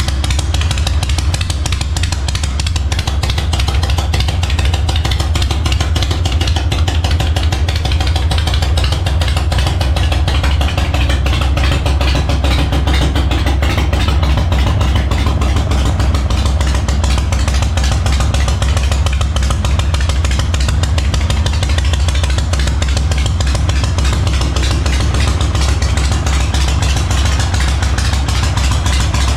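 Harley-Davidson Knucklehead V-twin engine in an FXR frame running steadily on its first run after the build, a dense, even stream of low exhaust pulses.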